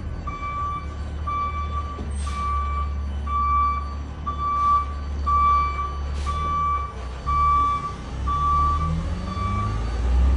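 Garbage truck backing up: its reversing alarm beeps steadily about once a second over the low running of the diesel engine, with three short hisses along the way. The beeping stops near the end.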